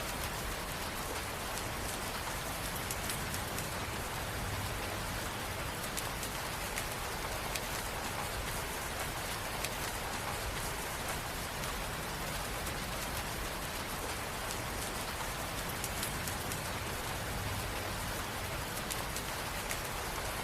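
Steady rain ambience: a constant hiss of rain falling on a surface, with fine drop patter on top.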